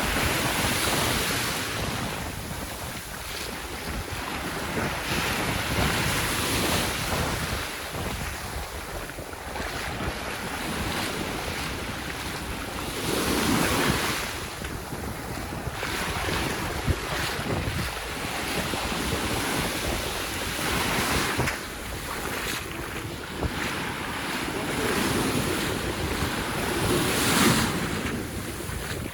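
Sea waves breaking and washing up a sandy beach, the surf swelling and easing every several seconds, with wind rumbling on the microphone.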